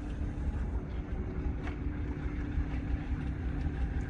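Small boat's motor running steadily, a constant low rumble with a steady hum.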